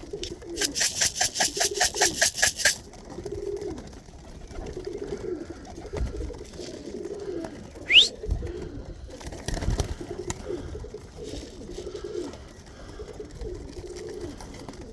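Tippler pigeons cooing over and over. Near the start, a quick rattle of sharp clicks, about six a second for some two seconds, and about eight seconds in, a short rising whistle.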